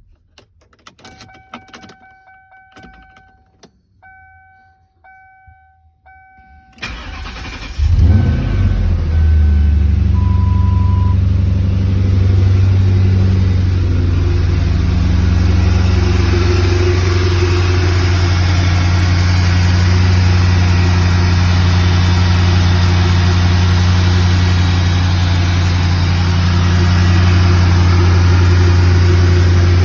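A few clicks and a chime repeating in short tones, then the starter cranks about seven seconds in. The 1998 Lincoln Mark VIII's 4.6-litre DOHC V8 catches within about a second and settles into a steady cold idle.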